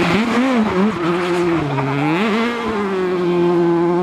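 Rally car engine revving hard, its pitch swinging up and down for the first two seconds, then holding a long steady high note as the car keeps on the throttle.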